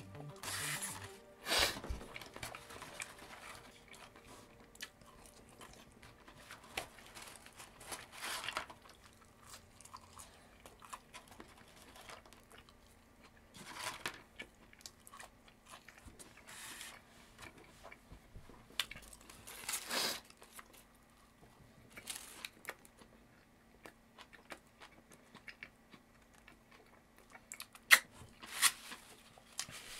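Close chewing and mouth noises of a person eating a fast-food burger and fries, with scattered soft crunches and occasional crinkles of the paper burger wrapper. A sharp click near the end is the loudest sound.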